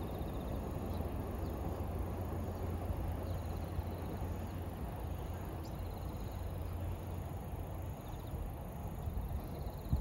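Electric commuter trains running on an elevated concrete viaduct: a low, steady rumble that eases after about seven seconds as they move away. Faint insect chirps sound over it.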